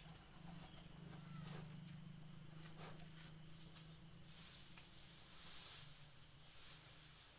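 Insects, crickets or cicadas, chirring in a steady high-pitched trill. A louder, hissing high buzz swells in about four seconds in. A low hum sits underneath in the first half, and a few faint short calls come through.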